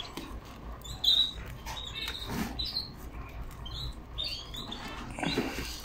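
Caged canaries giving a string of short, high chirping calls, with light taps and rustles among them.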